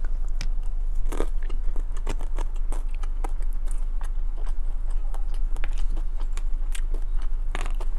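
Close-up chewing of chili cheese fries: irregular soft, wet mouth clicks and smacks, picked up by a clip-on lapel microphone, over a steady low hum.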